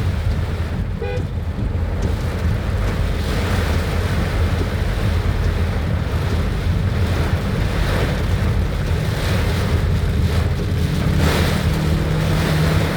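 Strong wind rumbling on the microphone over a steady hiss of heavy rain, with road traffic running underneath.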